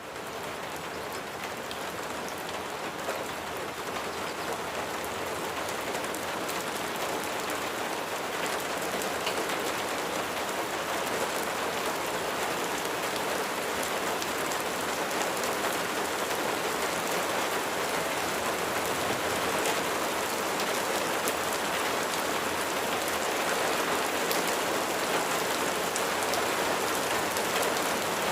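Steady rain falling, a dense even hiss of many drops with faint scattered ticks. It comes in from silence at the very start and grows slightly louder toward the end.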